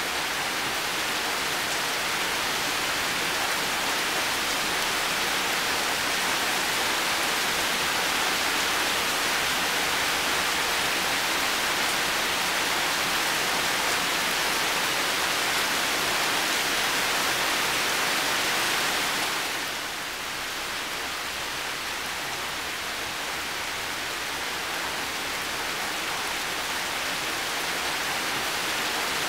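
Heavy rain falling in a steady, dense hiss. About two-thirds of the way in it drops a little softer and duller, then gradually builds back up.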